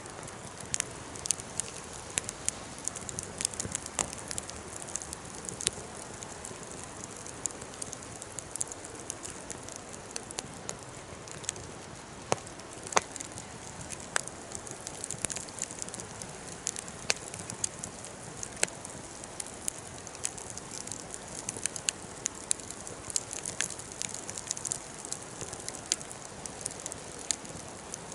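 Campfire crackling steadily, with irregular sharp snaps over a soft hiss.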